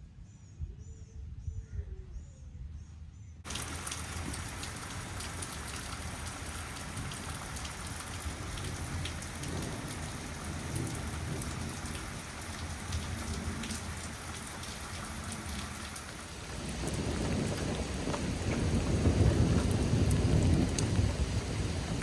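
Rain falling steadily, starting abruptly about three and a half seconds in after a quieter opening with a few high chirps. A low rumble of thunder builds over the last few seconds and is the loudest part.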